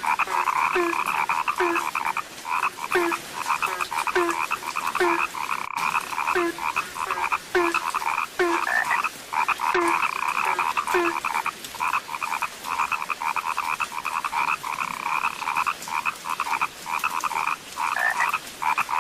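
A chorus of frogs calling, many overlapping croaks in a dense, continuous din. A deeper call repeats about twice a second through the first half and then stops.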